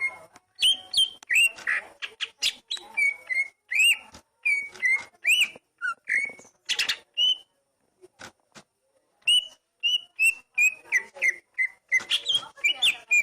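Oriental magpie-robin singing: a varied run of clear whistled notes, many of them sliding up or down, with a short pause about halfway through.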